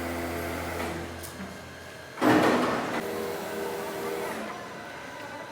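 A machine motor running with a steady hum, and a loud, harsh burst of noise lasting under a second about two seconds in.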